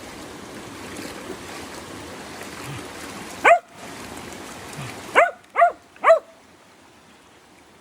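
Dog barking: one sharp bark about three and a half seconds in, then three quick barks in a row, over the steady rush of a creek that falls away as the three barks start.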